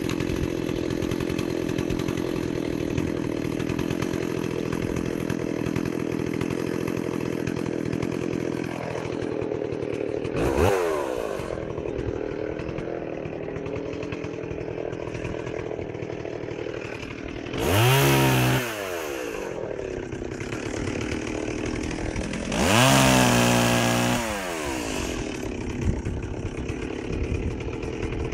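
Stihl 038 Magnum two-stroke chainsaw idling steadily, then revved three times: a short blip about ten seconds in, then two longer, louder bursts, each rising in pitch and falling back to idle.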